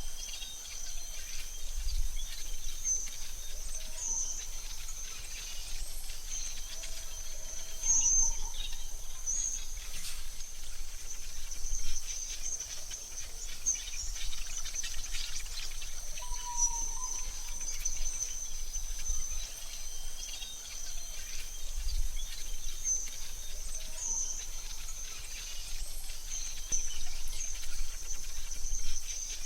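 AI-generated forest ambience: a steady high insect trill, like crickets, with a few short bird chirps over a low rumble that swells now and then.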